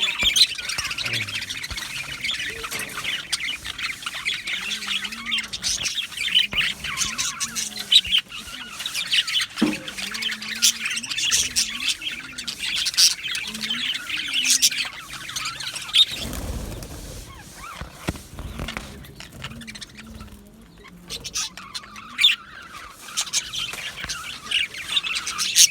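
A colony of budgerigars chirping and chattering, many calls overlapping. A short low rumble comes about sixteen seconds in, and the chatter thins briefly a few seconds later.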